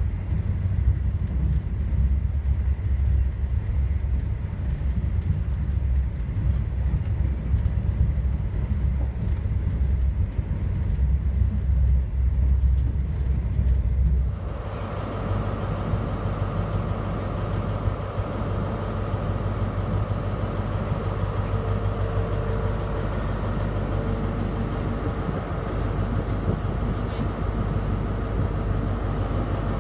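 Steady low rumble of an HST passenger train running along the line, heard from inside a carriage. About 14 seconds in it changes abruptly to the steady hum and whine of the HST's Class 43 diesel power car idling at a platform.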